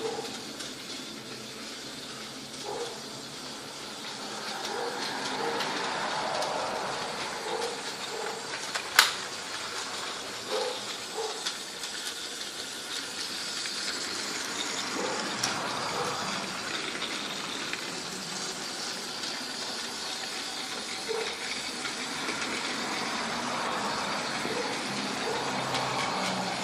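Battery-powered Trackmaster toy locomotive (Duck) running on plastic track, its motor and drive unit whirring, getting louder and softer as it comes near and moves away. Light clicks recur throughout, with one sharp click about nine seconds in. The owner calls it clicking away and can't say why; its wheels bind once every revolution.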